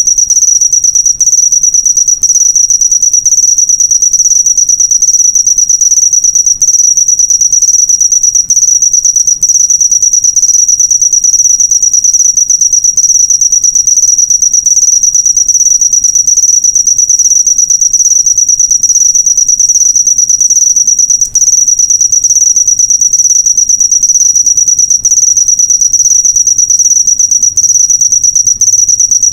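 Cricket singing in an unbroken, fast-pulsed high-pitched trill, loud and steady throughout.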